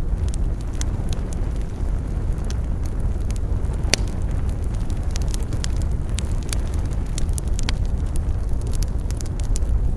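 Wood campfire burning, crackling and popping steadily over a low rumble, with one sharper pop about four seconds in.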